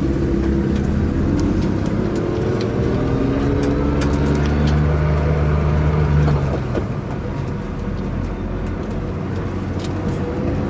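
Car engine heard from inside the cabin, pulling away with revs rising steadily for about six seconds, then dropping suddenly as the driver shifts up, and running on at lower revs.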